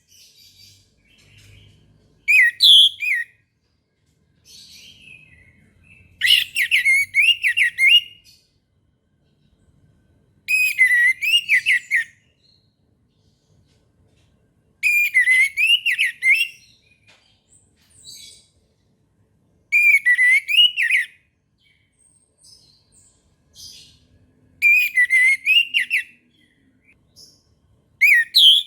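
Orange-headed thrush singing: seven short phrases of clear whistled and warbled notes, each a second or two long, coming about every four to five seconds.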